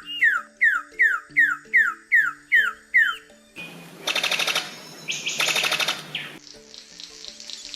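A bird calling a run of about eight clear, downward-sliding notes, two to three a second, then a harsh, rapid chattering rattle for about three seconds. Soft background music plays underneath.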